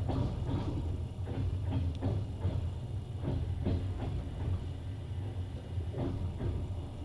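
Passenger train running along the track, heard from inside the carriage: a steady low rumble with irregular clacks and knocks of the wheels over the rails, which thin out after about five seconds.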